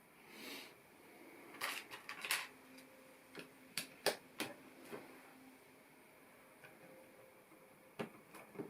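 Plastic LEGO pieces being handled and pressed together: a brief soft rustle, then a scattered series of sharp clicks and taps.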